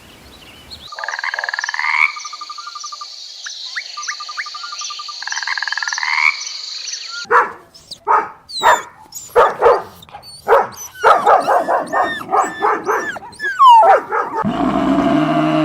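Frogs croaking in quick trilled runs over a steady high-pitched chorus. About halfway through this gives way to a rapid series of short, sharp animal calls, and a low roar begins near the end.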